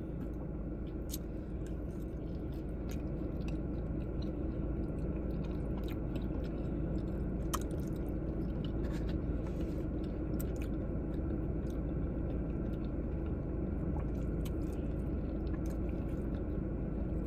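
Close-up chewing of soft baked macaroni and cheese: wet, squishy mouth sounds with many small clicks, over a steady low hum.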